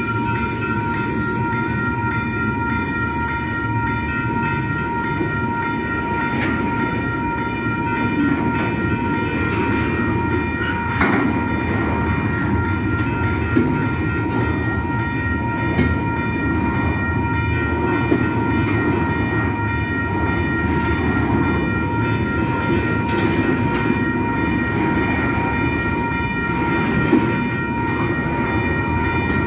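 Double-stack intermodal container train of well cars rolling past: a steady rumble of steel wheels on rail with occasional clicks, over a steady high-pitched ringing tone.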